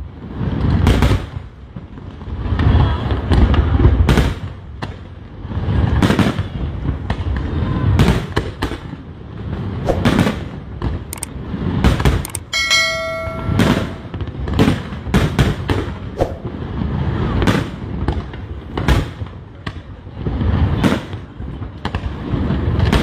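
Aerial fireworks shells bursting one after another, a continual run of sharp cracks and deep booms with echoing low rumble between them.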